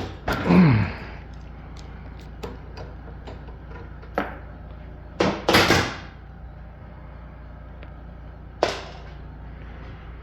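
Scattered clicks and knocks of hand tools being handled on a small engine, with a louder clatter about five and a half seconds in and a sharp knock near the end, over a steady low hum.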